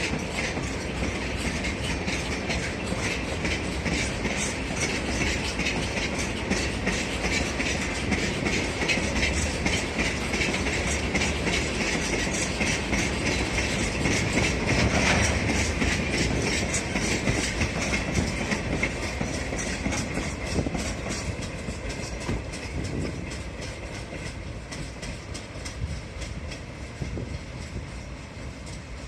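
Railway freight wagons rolling by slowly during shunting, their wheels clicking over the rail joints. The sound is loudest about halfway through, then fades as the cars move away.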